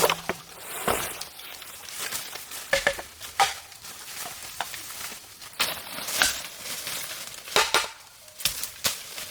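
Irregular sharp knocks, cracks and rustling from hands-on work, several louder clacks a second or so apart.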